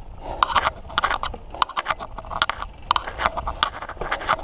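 Mountain bike clattering and rattling over a rough trail, with many quick irregular knocks over a low rumble of tyres on dirt.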